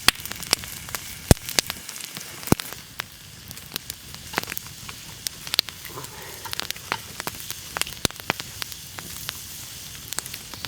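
Bacon ham sizzling in a pan set directly on a wood campfire, with a steady hiss broken by many sharp, irregular pops and crackles.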